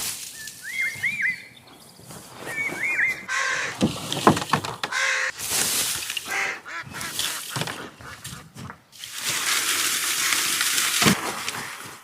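A bird calls twice in short arched, up-and-down notes. It is followed by stretches of noise with scattered sharp knocks.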